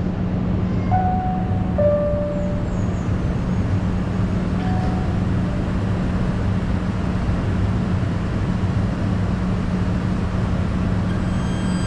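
Train running with a steady low rumble and hum, with two short high squeaks about one and two seconds in. A high, steady whine starts near the end.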